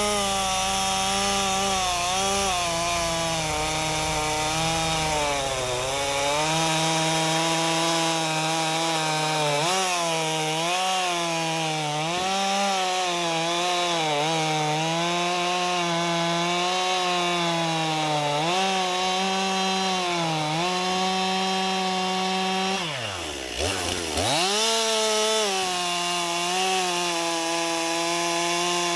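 STIHL two-stroke chainsaw running at high revs, bucking logs: the engine note sags and recovers again and again as the chain loads up in the wood. Late on the revs drop almost to idle for a moment and the saw revs back up.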